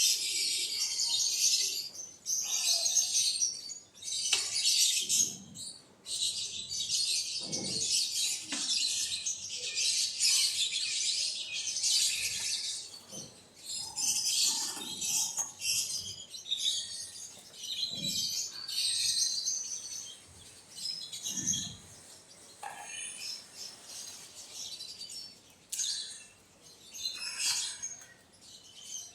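A flock of quail chirping continuously in dense, overlapping high calls, thinning out somewhat in the second half, with a few short soft knocks.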